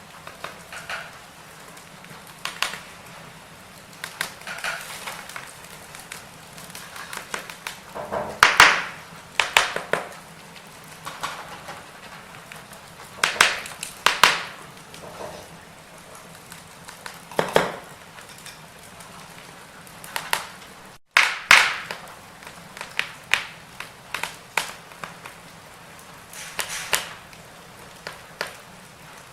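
Firewood burning, with irregular crackles and pops over a low, steady hiss.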